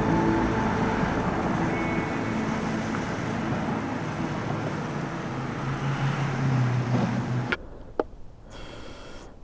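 Car on the move: engine hum and road noise, the hum growing stronger before cutting off suddenly about seven and a half seconds in. Then it goes quiet apart from a few sharp clicks.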